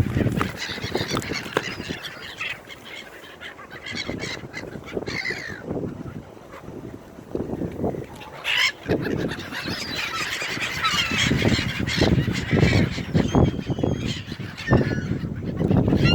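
A flock of gulls calling over one another, many short, rising and falling calls in quick succession.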